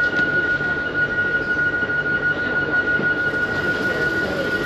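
RENFE commuter train noise: a steady high-pitched whine held on one pitch over a low rumble.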